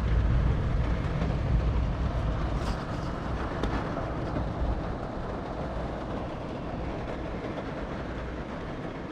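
Thunderstorm arriving: a deep rumble that swells at the start and slowly dies away, over a steady rush of wind and rain.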